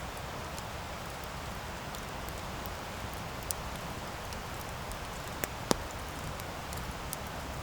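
Wood campfire burning: a steady hiss of flames with scattered crackles and pops, the loudest pop a little over halfway through.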